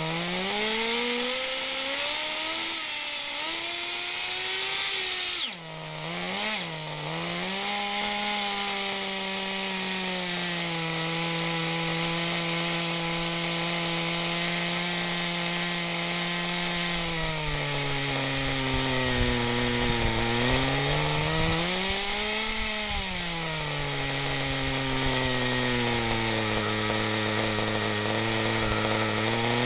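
Kyosho 1/10-scale RC car's small two-stroke nitro engine running, a loud buzz that mostly holds steady, with its pitch dipping and rising a few times as the throttle changes.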